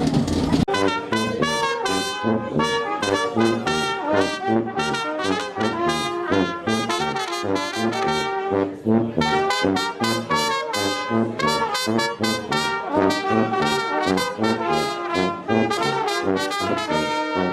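Brass music, trumpets and trombones playing a lively tune, starting abruptly under a second in after a burst of noisy background.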